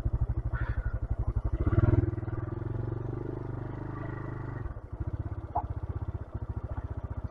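125cc motorcycle's single-cylinder engine running with a rapid, even putter. About two seconds in it revs up and runs faster and smoother, then drops back to the slower putter a little before five seconds.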